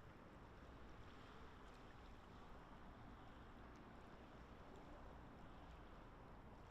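Near silence: a faint, steady outdoor background hiss with no distinct sound events.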